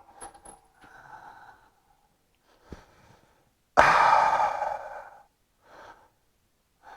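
A person's heavy sigh about four seconds in, fading over a second or so, after a single faint click; a softer breath follows near the end.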